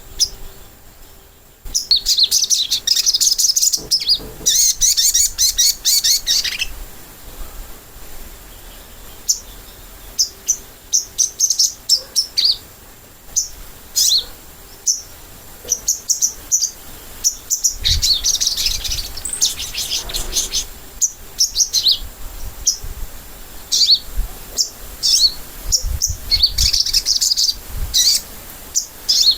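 Sogok ontong sunbird singing: rapid, high-pitched twittering chirps. They come in dense bursts of a few seconds, with scattered single chirps in between.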